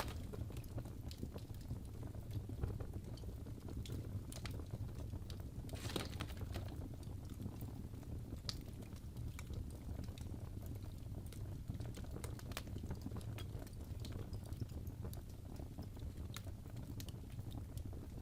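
Wood fire crackling in a fireplace: irregular pops and snaps over a steady low rumble, with a stronger burst of crackling about six seconds in.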